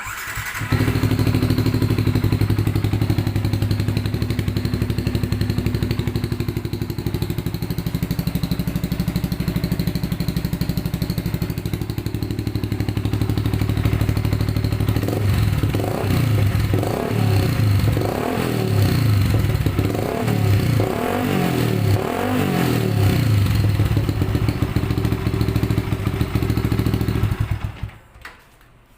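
Yamaha Vixion motorcycle's single-cylinder four-stroke engine starting, idling, then revved in a string of quick blips about halfway through, settling back to idle and shutting off near the end. The exhaust has a turbo whistle fitted, but the whistle is hardly heard over the exhaust note.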